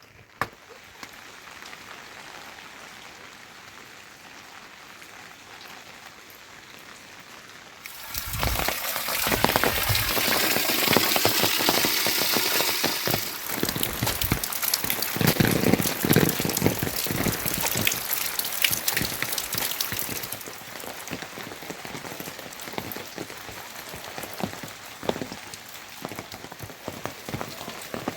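Rain falling, with many separate drop hits. It is moderate at first, turns suddenly much louder and heavier about eight seconds in, and eases somewhat after about twenty seconds.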